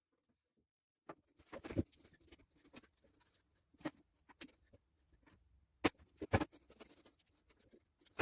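Irregular light clicks and knocks of small wooden trim pieces being handled and fitted on a workbench, with a faint rustle between them; the sharpest clicks come in the second half.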